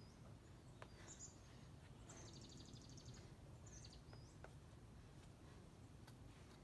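Near silence with faint bird chirps, including a short rapid trill about two seconds in, and a few faint clicks.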